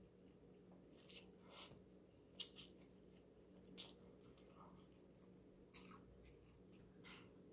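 Faint eating sounds of a person slurping and chewing Samyang spicy instant noodles: scattered soft wet mouth clicks and smacks, a handful of them spread over several seconds. A faint low steady hum lies underneath.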